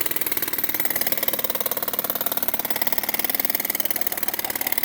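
Jackhammer breaking up thick concrete, a rapid, steady hammering.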